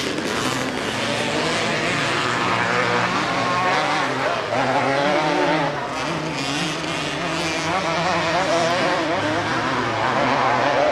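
Several motocross bikes racing, their engines revving up and down in overlapping waves as riders work the throttle.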